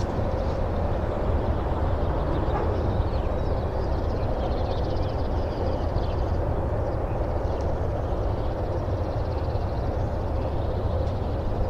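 Freight train cars rolling past, a steady low rumble of wheels on rail with faint, intermittent high-pitched sounds above it.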